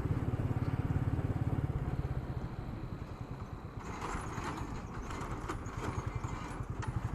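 Royal Enfield Meteor motorcycle engine running while riding, a fast, even low thudding exhaust beat picked up by an action camera's built-in microphone. From about four seconds in, gusts of rushing noise come and go over it.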